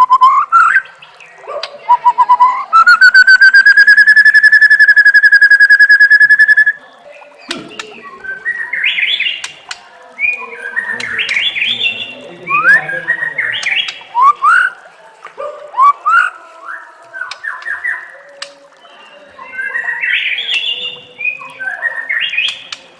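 Songbird song from a masteran training recording for white-rumped shamas: a loud whistle with a fast flutter, held for about four seconds, then a run of quick, varied rising chirps and phrases.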